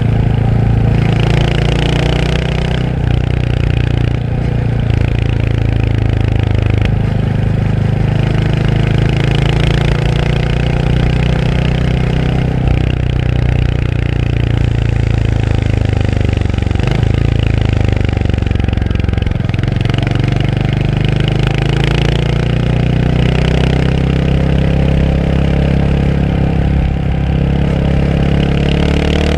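Royal Enfield Hunter 350's single-cylinder engine running under way, its exhaust note rising and falling with the throttle. It drops back about two-thirds of the way through, then climbs again.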